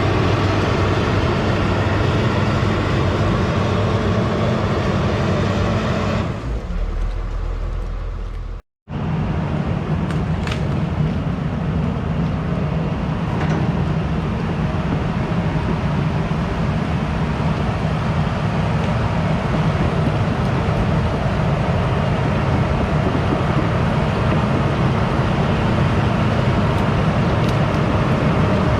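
Excavator's diesel engine running steadily under load. The sound turns duller about six seconds in, drops out abruptly near nine seconds, then picks up again and runs on steadily.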